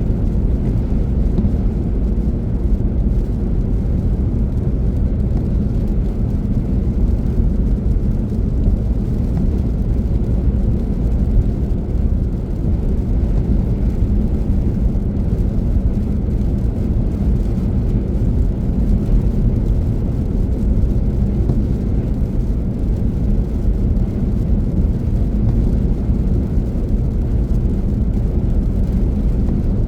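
Car driving at speed: a steady, even low rumble of tyres and engine.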